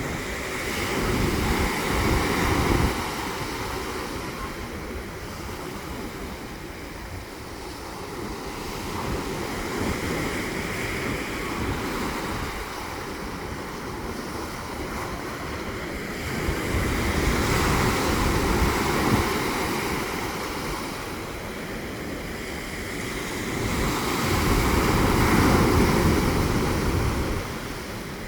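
Waves of a rough sea washing in and out, the surf swelling and easing, with bigger breaks near the start, past the middle and near the end.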